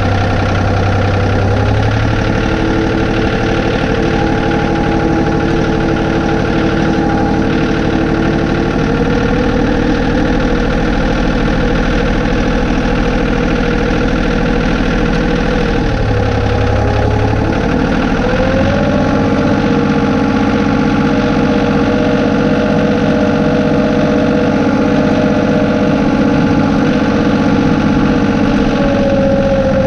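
John Deere 2032R compact tractor's three-cylinder diesel engine running steadily, its note shifting a few times as the engine speed or load changes.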